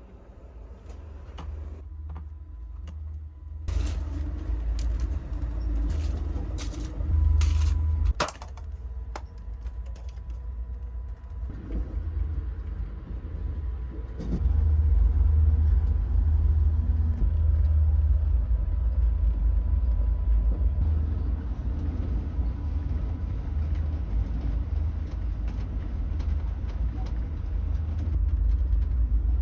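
Low, steady rumble of the Coast Starlight passenger train rolling along the track, heard from on board. A scatter of sharp clicks and knocks comes about 4 to 9 seconds in, and the rumble gets louder about halfway through.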